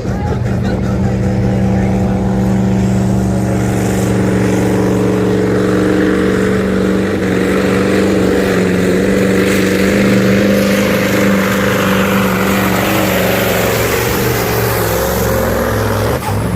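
Competition pulling-truck engine running flat out at steady high revs during a pull, one even, unbroken engine note.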